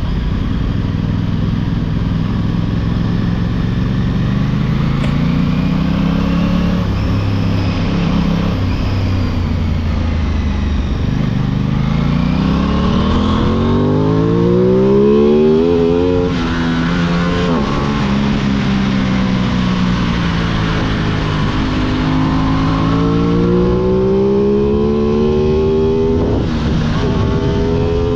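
Aprilia 660 parallel-twin motorcycle engine revving under throttle: its pitch climbs slowly to a peak about halfway through, drops away, then rises again near the end.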